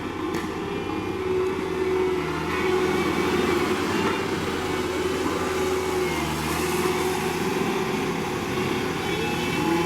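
Diesel engine of heavy road-construction machinery running steadily, with a wavering whine over a low hum.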